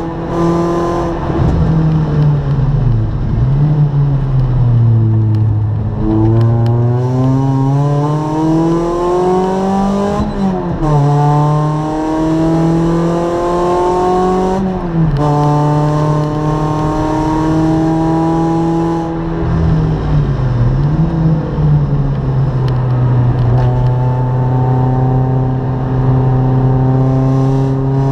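Racing car's engine heard from inside its caged cockpit, revving up through the gears with its pitch climbing and then dropping sharply at each shift, and holding steady revs for long stretches in between.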